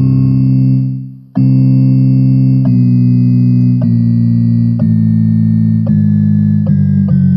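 Electronic keyboard playing sustained notes in a synth-like preset tone. About a second in the sound fades away, and after a brief gap a different preset tone starts. Its notes change roughly once a second.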